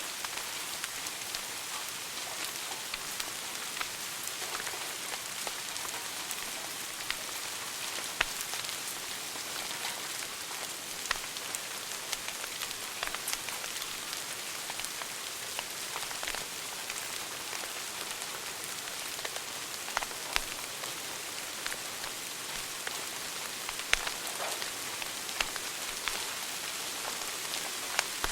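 Wood fire burning in a fireplace: a steady hiss with many scattered sharp crackles and a few louder pops.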